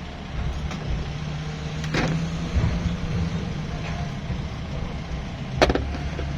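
A vehicle engine idling steadily with a low hum, with two sharp metallic clicks, one about two seconds in and one near the end.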